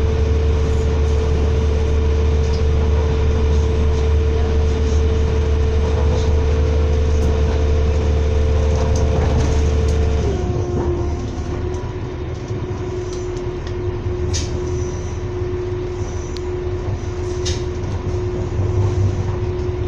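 Passenger train running, heard on board: a steady rumble with a humming tone that steps down to a lower pitch about halfway through, as the rumble eases and the noise gets a little quieter. A few short clicks in the second half.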